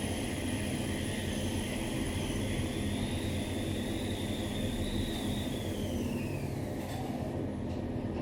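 Otis Gen2 ReGen machine-room-less traction elevator car travelling between floors, with a steady rumble of the ride. A faint drive whine climbs as the car speeds up and falls away over the last couple of seconds as it slows toward the floor.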